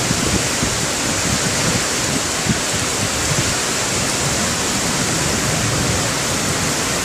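Heavy rain pouring down in a storm, a dense steady hiss.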